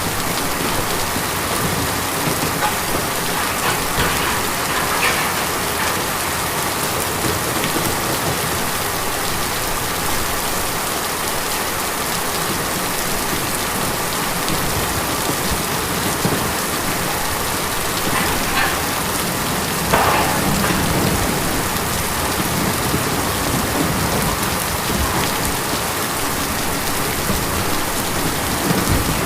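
Steady rain drumming on a tin roof, an even dense patter, with a few louder drips standing out about four seconds in and again about twenty seconds in.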